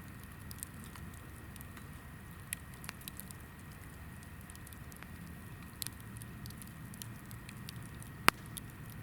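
Hinoki (Japanese cypress) firewood burning in a campfire: a low steady rumble of flame with scattered small crackles and one loud sharp pop about eight seconds in.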